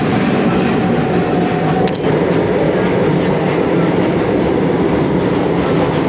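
The 18450 Baidyanath Dham Express passenger train running at speed, heard from aboard a sleeper-class coach: a loud, steady rumble of wheels on rail. A thin steady tone above the rumble stops about two seconds in.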